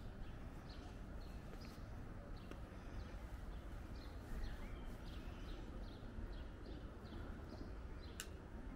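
Birds chirping with many short, scattered calls over a steady low rumble, and a single sharp click near the end.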